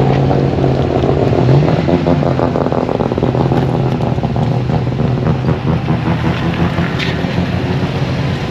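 Car engine running close by, its pitch rising briefly about a second and a half in, then settling back into a steady, pulsing run.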